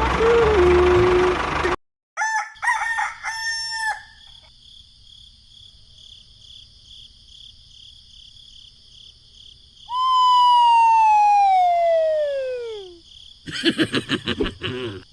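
A noisy engine-like rumble cuts off abruptly. Then a rooster crows over a steady, pulsing high chirring. About ten seconds in comes one long falling call, and a quick run of knocks follows near the end.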